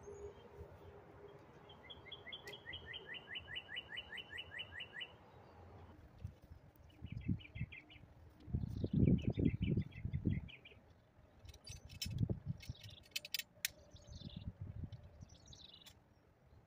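Small birds chirping: a rapid trill of about four high chirps a second for some three seconds, then shorter chirp series. In the second half, low rumbling bursts (the loudest sounds) and a few sharp clicks.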